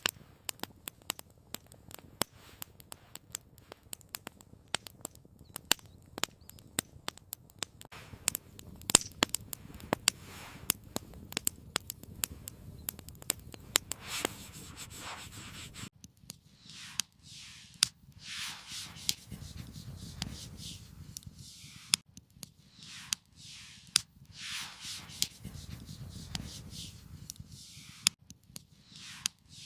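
Campfire crackling with many sharp pops through the first half. Then a run of rasping strokes, each about a second long and about one every one and a half seconds, with a few pops still among them.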